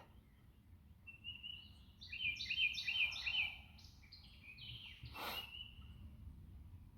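Songbirds singing in quick repeated chirping phrases, with a brief noisy rush about five seconds in.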